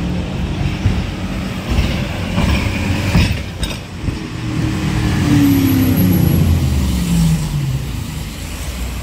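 Motor vehicle engines running as a slow police-escorted convoy approaches along a city street. About five to eight seconds in, an engine's pitch falls as it slows. A few sharp knocks come about three seconds in.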